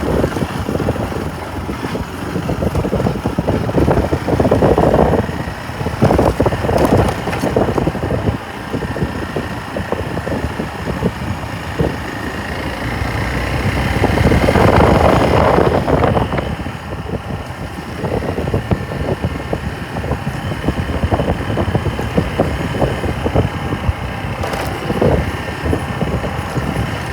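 Motorcycle running on the move, engine noise mixed with wind rushing past, swelling louder about halfway through.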